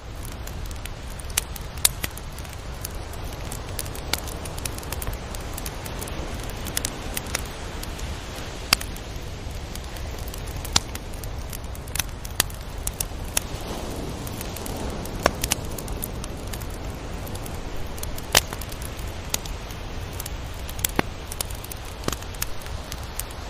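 Crackling: irregular sharp pops and snaps, a few of them loud, over a steady low rumbling noise.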